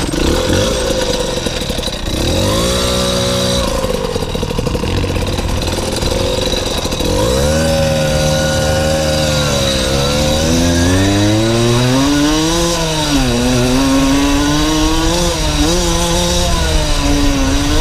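Yamaha DT 80's small two-stroke single-cylinder engine riding along a dirt track, its revs climbing and dropping again and again as the rider works the throttle and gears.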